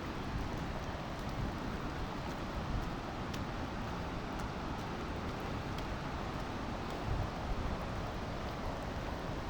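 Steady rushing of falling water from a waterfall, with wind buffeting the microphone.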